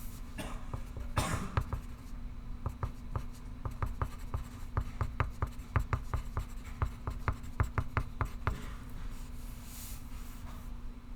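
Pencil writing on paper. A longer scratch comes about a second in, then a run of short, quick strokes at several a second until about eight and a half seconds in, then another scratch near the end, over a steady low hum.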